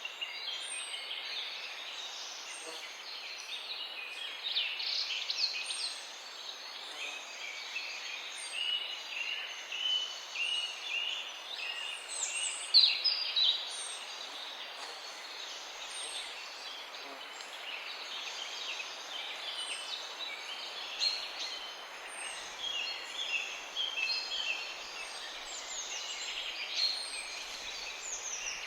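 Many small birds chirping and calling over one another, with a high short note repeating about once a second, over a steady background hiss.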